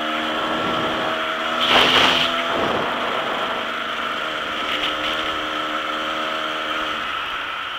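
Dirt bike engine running under way, its pitch holding steady and then shifting up and down in steps with the throttle, with a loud rush of noise about two seconds in.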